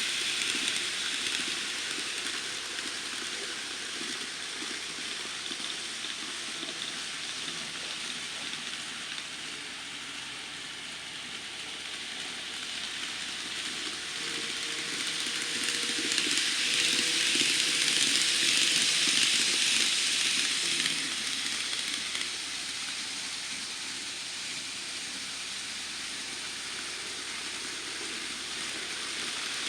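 N scale model Shinkansen trains running on the track: a steady rolling hiss and rumble of small wheels and motors, swelling louder for several seconds about halfway through.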